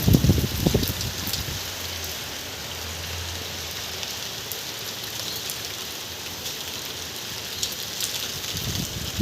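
Steady rain falling: an even hiss with scattered sharp drip ticks, and a few low thumps in the first second.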